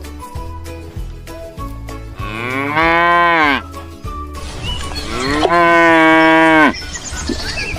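Cow mooing twice: two long moos about three seconds apart. The first rises and then falls in pitch; the second holds steady and drops at the end.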